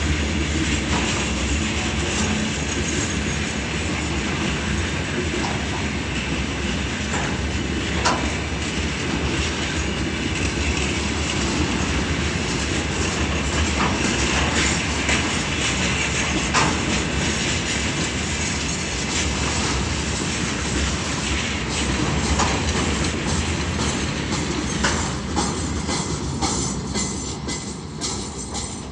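Freight cars of a long mixed freight train rolling past, a steady clatter of wheels over rail joints with scattered sharp clicks. The noise starts to fade near the end.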